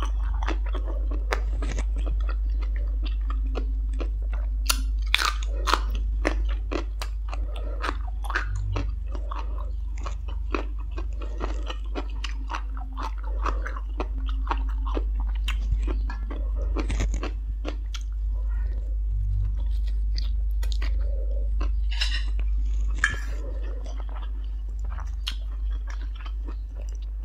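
Close-miked person chewing and crunching a mouthful of food, stir-fried instant noodles with green papaya salad, with many irregular crackly clicks over a steady low hum.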